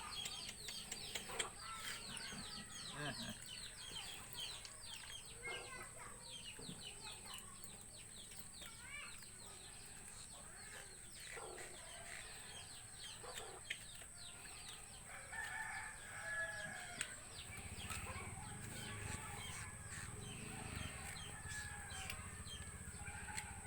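Faint farmyard birds: rapid high chirping with chickens clucking, and a few drawn-out calls near the middle.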